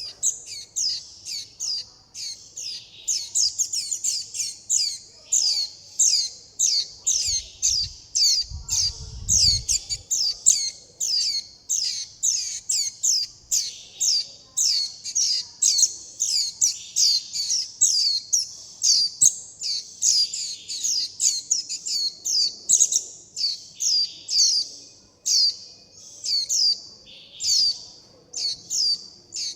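Fledgling white-eye begging and contact calls: a rapid, continuous series of high, thin chirps, each sweeping downward, about three a second. A brief low rumble comes about nine seconds in.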